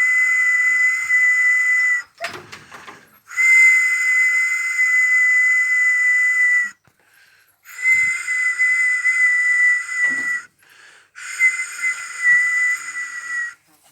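A whistle blown in four long, steady, breathy blasts of about two to three and a half seconds each, the pitch dipping slightly at the end of each. There are brief short noises in the gaps between blasts.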